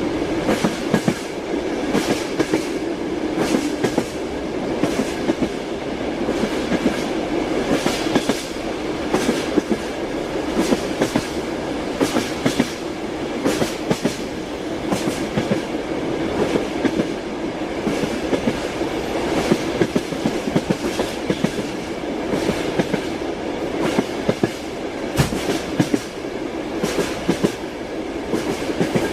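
Train wheels clattering over the rail joints, heard from inside a moving railway carriage, with a steady rumble and repeated sharp clacks throughout.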